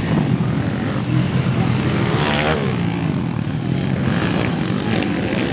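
Motocross dirt bike engines running and revving, one sweeping up and down in pitch about two seconds in.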